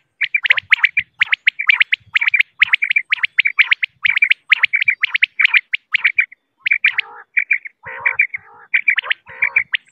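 Female common quail (Coturnix coturnix) calling: a fast, unbroken series of short, sharp notes, several a second. In the last few seconds the notes break up and lower, rougher calls join in.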